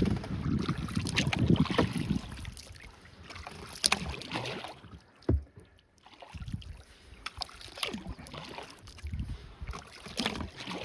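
Kayak being paddled: paddle strokes splashing and dripping in the water, with a sharp knock about five seconds in.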